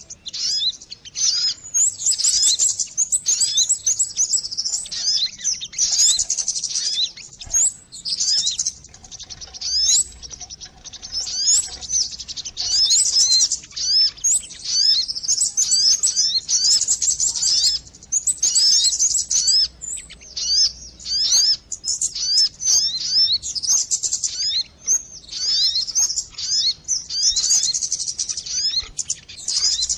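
A dense chorus of small birds chirping and twittering in quick, high, downward-sweeping notes with short pauses, a lure recording of sogon bird calls.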